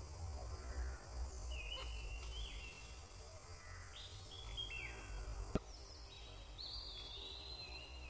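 Faint outdoor ambience with birds chirping: short high notes, some sliding up or down, repeated several times from about two seconds in, over a low steady rumble. A single sharp click about five and a half seconds in.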